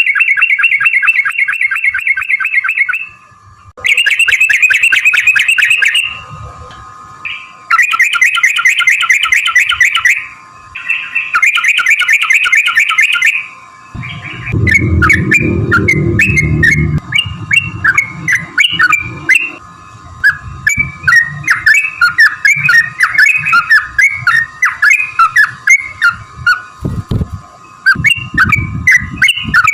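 Yellow-vented bulbul (trucukan) singing: several bursts of very rapid rolling trills about three seconds each, then a run of quicker, broken chattering notes in the second half. A low rumble sounds around the middle, and a faint steady tone runs underneath.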